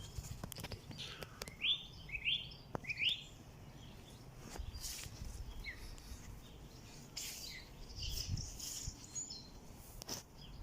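Small garden birds chirping: short, quick rising chirps, the loudest three close together in the first few seconds and more scattered high calls later, with a few sharp clicks and outdoor background noise.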